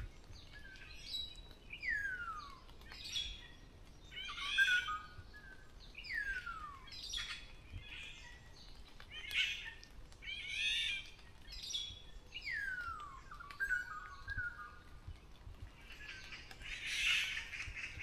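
Songbirds calling: clear whistles that slide down in pitch, repeated every couple of seconds among shorter chirps and warbles, with a louder, denser chatter near the end.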